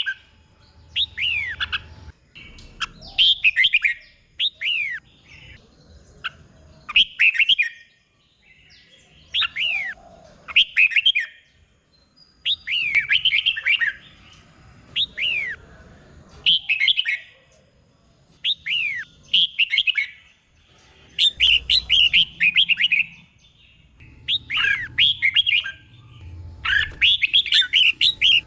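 Red-whiskered bulbul singing: short phrases of quick, down-slurred whistled notes, repeated every second or two with brief pauses between them.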